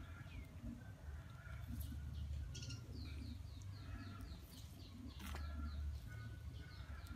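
Birds calling, including a quick run of short falling chirps around the middle, over a steady low rumble, with one sharp click about five seconds in.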